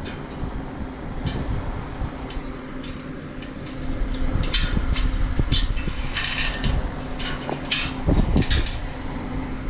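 A steady mechanical hum, with a run of sharp clicks and clinks from about four seconds in.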